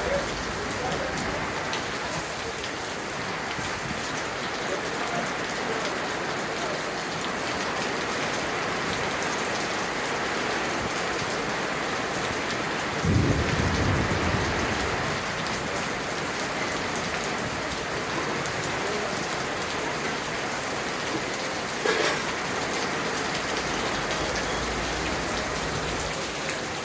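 Steady rain falling, an even hiss throughout, with a brief low rumble about halfway through.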